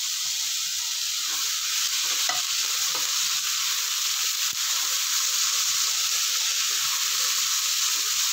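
Chopped tomatoes and onions frying in hot oil in a non-stick wok: a steady sizzle, with a few soft scrapes and knocks as a spatula stirs them.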